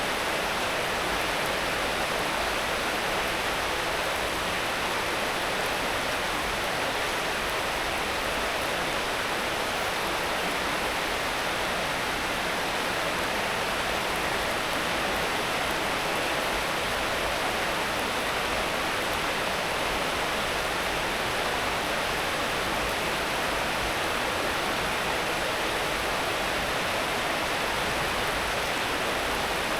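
Steady rain falling, an even hiss that does not change, with no single drops, thunder or other events standing out.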